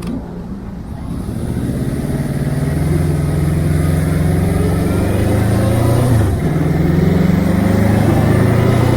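Yamaha Royal Star V4 motorcycle engine pulling under acceleration, smooth and quiet rather than loud-piped. Its pitch rises over the first few seconds, drops briefly about six seconds in, then climbs again.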